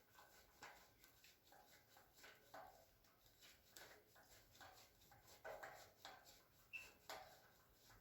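Near silence with faint, irregular light clicks and scrapes: a hand screwdriver driving screws into a metal shelving bracket.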